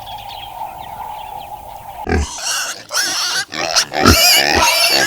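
Pigs squealing loudly in shrill, wavering cries from about two seconds in, broken by short pauses. Before that come only faint bird chirps over a steady hum.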